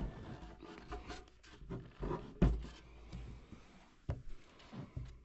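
Irregular taps, knocks and scrapes of a metal pick and hands working over a gas furnace's heat exchanger, probing its cells for corrosion holes. The loudest knock comes about two and a half seconds in, another sharp one about four seconds in.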